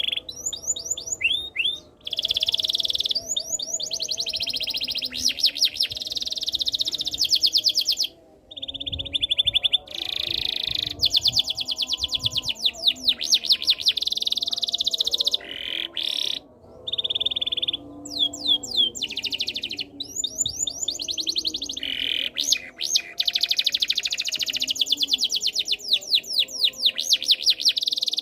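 Domestic canary singing a long song of fast trills and rapid repeated notes, with a few brief pauses.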